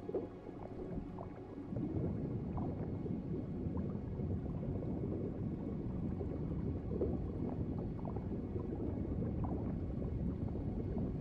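Underwater ocean ambience: a steady low gurgling of water with small scattered bubble pops, growing louder about two seconds in.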